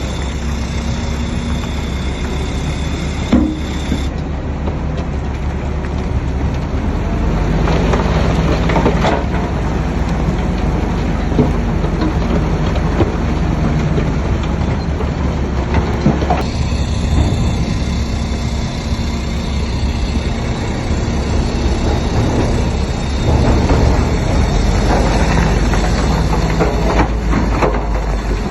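Shantui crawler bulldozer working: a steady, deep diesel engine with the steel tracks clanking and squeaking. The sound changes abruptly about 4 seconds in and again about 16 seconds in.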